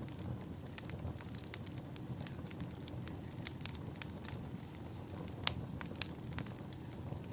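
Fireplace crackling: scattered sharp pops and snaps over a low, steady rumble, with the loudest pop about five and a half seconds in.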